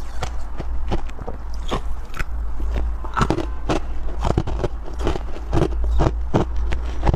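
Close-up crunching of freezer frost and soft ice being bitten and chewed: many short, crisp crunches at an uneven pace of about three or four a second, over a low steady hum.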